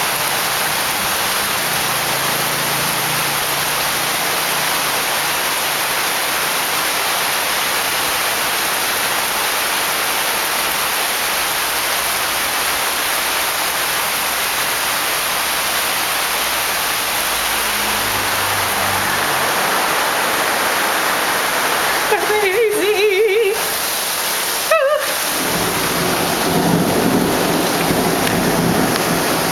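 Heavy rain pouring down: a dense, steady hiss of rain on surfaces. About 22 seconds in, a brief wavering tone sounds over it, and near 25 seconds the sound briefly drops out.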